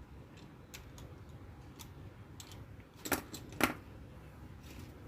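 Light clicks and taps of egg incubator parts being handled and fitted back together, with two sharper clacks in quick succession about three seconds in.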